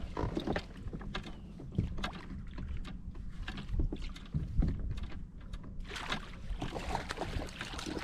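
Scattered clicks and knocks of gear handled on a fishing kayak over a low wind rumble on the microphone, growing busier and noisier for the last couple of seconds.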